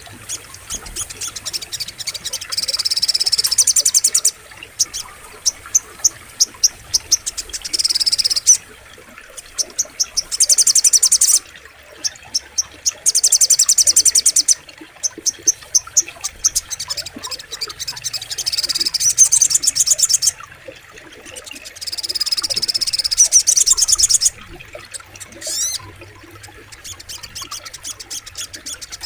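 Crimson sunbird (sogok ontong) singing: phrases of very fast, high-pitched trills about a second or two long, repeated with short pauses between them.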